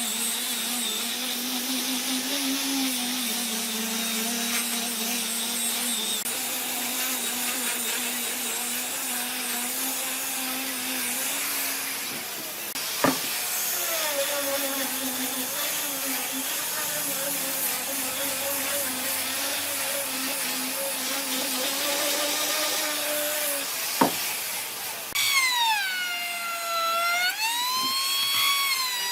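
A power tool's motor running with a steady hum, broken by two sharp clicks. Near the end its pitch sweeps up and down over and over, like a wail.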